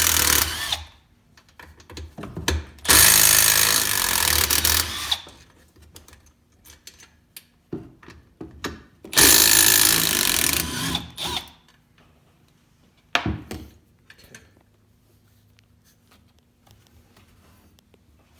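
Power tool run in three bursts, the first about a second long and the next two a few seconds each, while loosening the 12 mm exhaust bolts. Short metallic knocks and clanks of tools come in between the bursts.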